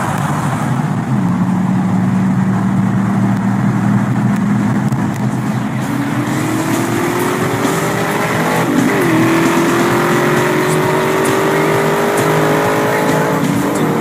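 Car engine under hard acceleration, its note climbing steadily with a gear shift about nine seconds in and another near the end, over wind and road noise from a moving car's open window. Before the pull the engine holds a steady drone.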